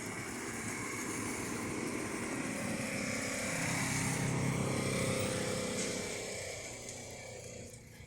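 A motor vehicle's engine running, growing louder to a peak about halfway through and then fading away, as it passes by.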